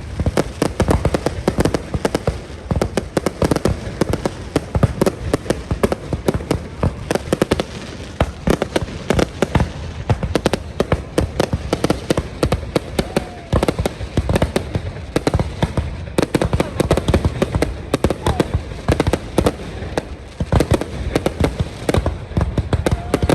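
Fireworks display: aerial shells going off in a dense, unbroken run of bangs, several a second, with crowd voices underneath.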